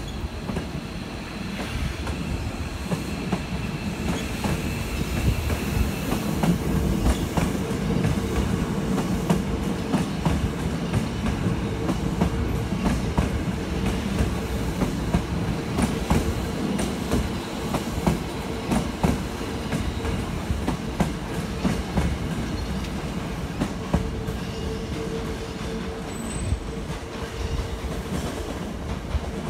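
Hankyu electric train running on the station tracks: wheels clicking over rail joints, over a steady motor hum, with a thin high wheel squeal a few seconds in.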